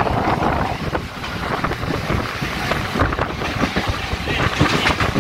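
Local train running between stations: a steady rumble and rush of noise with many small rattles and knocks.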